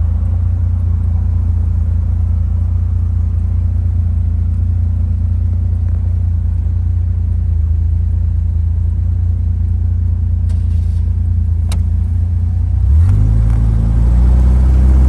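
A 1978 Panther J72's 4.2-litre DOHC straight-six engine running at a steady cruise with a low drone. About thirteen seconds in, the engine note rises and gets louder as the car accelerates, just after a single sharp click.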